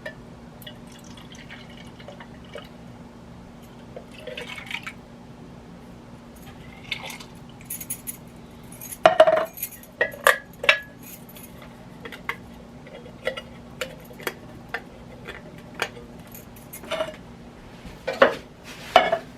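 Scattered clinks, taps and knocks of metal cans and utensils against a cooking pot, with wet sloshing, as canned beans are emptied into it. The loudest knocks come about nine seconds in and again near the end.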